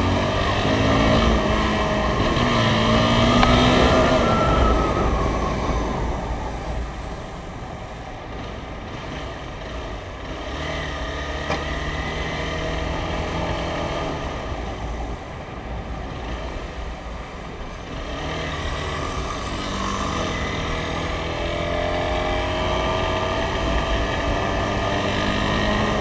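Motorcycle engine climbing in pitch as it accelerates for the first few seconds, then easing off and running steadier, and pulling up through the revs again near the end. A constant low wind rumble lies underneath.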